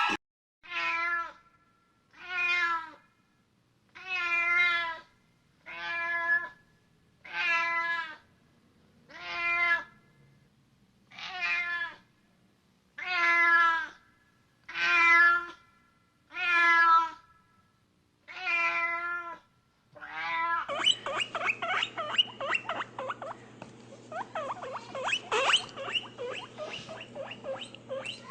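Domestic cat meowing repeatedly: about a dozen separate meows, each under a second, every one and a half to two seconds. About two-thirds of the way in it gives way to a dense run of quick high squeaks over a steady low hum.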